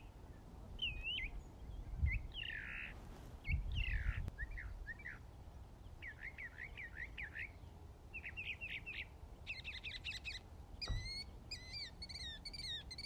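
Birds chirping in many short, quick notes that rise and fall, coming in faster runs in the second half. A faint low rumble with a couple of dull thumps lies under them.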